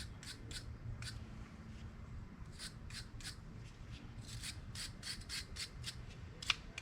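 Wire brush scrubbing a sticking socket ratchet clean, short scratchy strokes coming in irregular clusters, with one sharper stroke near the end.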